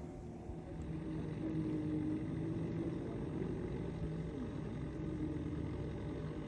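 Boat motor running steadily, a low hum whose pitch wavers slightly.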